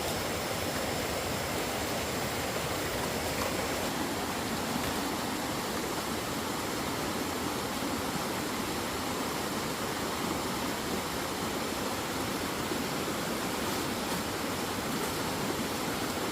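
Steady rushing of water, an even hiss with no distinct events.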